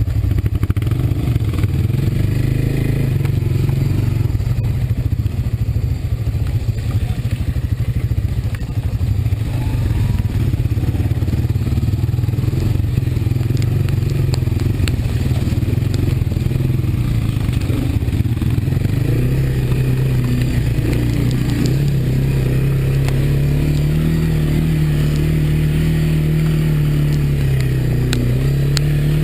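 Honda quad's single-cylinder engine running steadily under way. Its pitch climbs from about two-thirds of the way through, dips briefly near the end and rises again.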